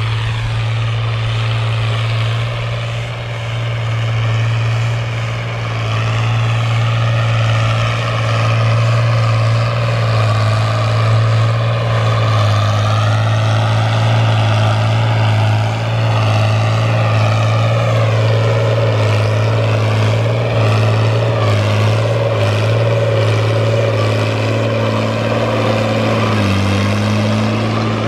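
Fiat 1000 DT Super tractor's diesel engine running steadily while plowing, a strong low hum with a higher whine that slowly rises and falls.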